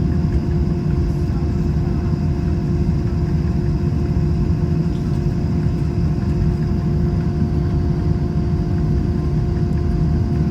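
Airbus A321 cabin noise while taxiing in: a steady low rumble of the idling engines and air system, with a constant hum over it.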